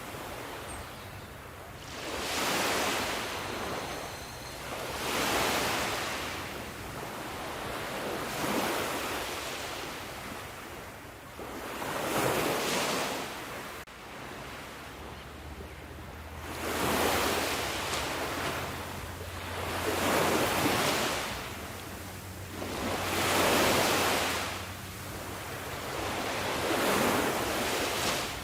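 Ocean waves breaking on a shore, a steady rhythm of surges that swell and wash out about every three seconds.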